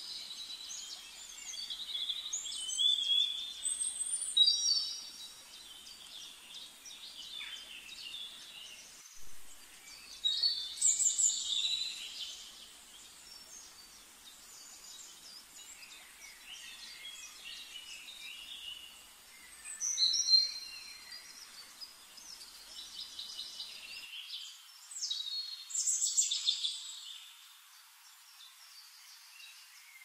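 Birds singing and calling in loud bouts of a second or two, several times over, above a faint steady hiss.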